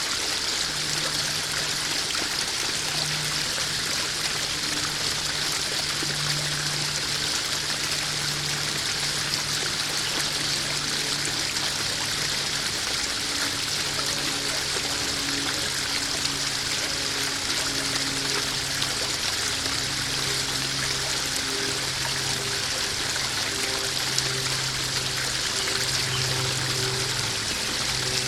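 Koi pond waterfall: water steadily splashing and trickling into the pond, with faint low held tones underneath that change pitch every second or so.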